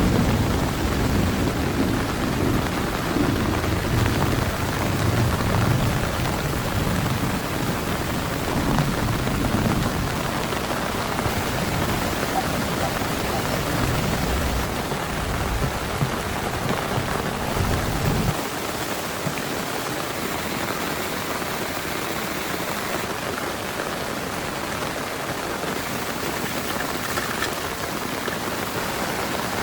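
Heavy rain pouring steadily, with a low rolling thunder rumble under it that stops abruptly about two-thirds of the way through, leaving only the steady rain.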